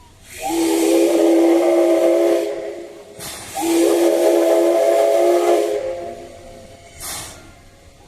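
Steam locomotive whistle blown in two long blasts of about two seconds each, with steam hissing over the tone. A short burst of steam hiss follows near the end.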